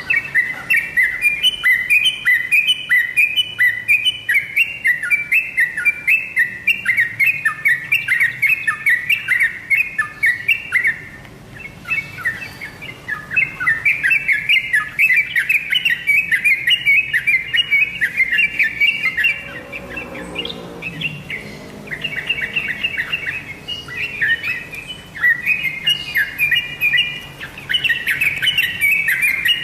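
Yellow-vented bulbul (trucukan) singing: a fast, near-continuous chatter of quick repeated notes, with short breaks about 11 and 20 seconds in.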